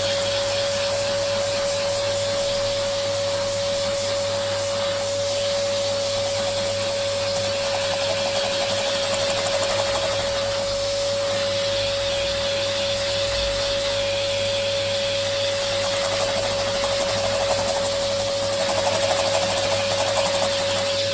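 Small motor of a handheld electric dust-cleaning tool running steadily, with a constant high whine over a rushing of air.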